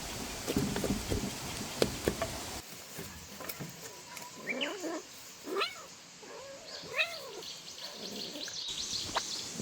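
A cat meowing several times in short calls that rise and fall in pitch. The calls follow a sudden change about two and a half seconds in from a stretch of crackling and clicking.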